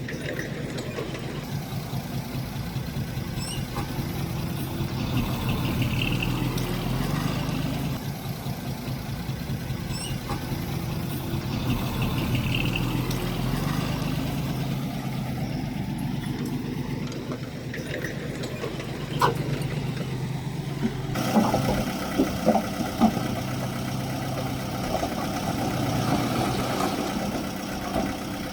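Diesel engine of heavy earthmoving machinery running steadily, with a few sharp knocks about two-thirds of the way through.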